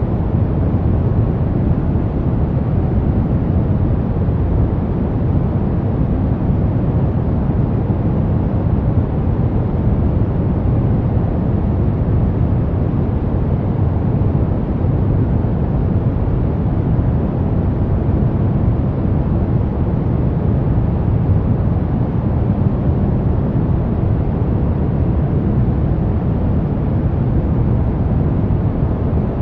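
Brown noise: a steady, unchanging rumbling hiss, deep and heavy in the low end and rolling off toward the treble.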